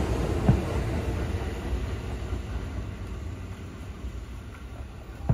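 A Kintetsu electric train passes and pulls away, its rumble fading steadily. There is a sharp knock about half a second in and another near the end.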